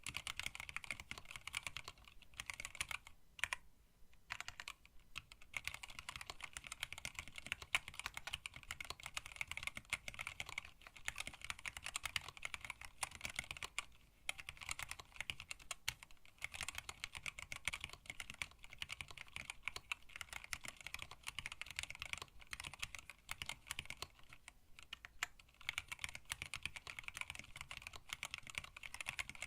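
Typing on a hand-wired split mechanical keyboard with Tealios linear switches, blank PBT keycaps and a stacked acrylic case: a dense, fast run of keystrokes with a few brief pauses.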